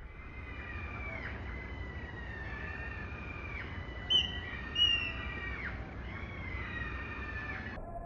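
Bird whistles: long held whistled notes that swoop downward at their ends, repeating every couple of seconds. Two short, sharp, high chirps about four and five seconds in are the loudest sounds.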